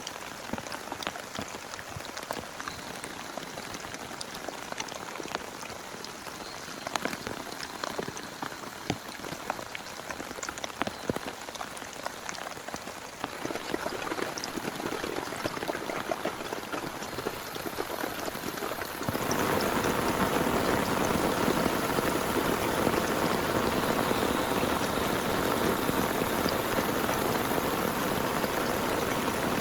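Rain falling, with scattered individual drops ticking over a steady patter. About two-thirds of the way through it jumps suddenly to a louder, denser downpour.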